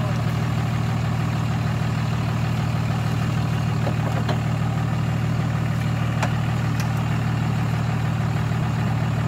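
Toyota Land Cruiser hardtop's engine idling steadily, with a few faint clicks over it.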